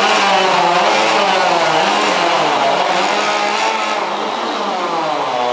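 Chainsaw engine running at full throttle through a timed contest cut, its pitch wavering up and down as the chain works through the log and dipping near the end.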